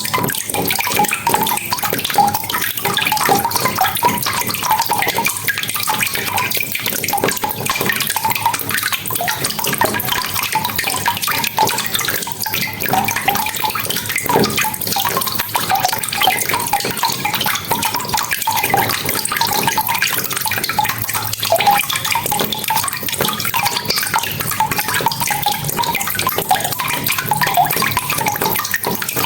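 Steady rain falling, a dense, even patter of many drops hitting and splashing, with no let-up.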